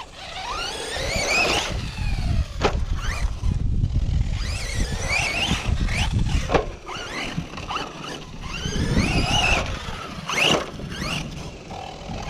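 Electric RC monster truck (Tekno ET48.3 conversion on a Redcat brushless system) driving on dirt: the motor's whine rises in pitch in three bursts of throttle, over tyre and chassis rumble with a few sharp knocks.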